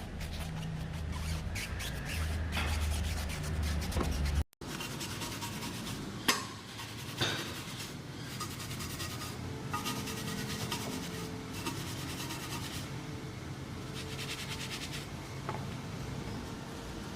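Rubbing and scrubbing of a brush or cloth working over a car's surfaces during hand cleaning, with a low hum under the first few seconds. The sound cuts out briefly about four and a half seconds in, and two sharp knocks come about a second apart around six seconds in.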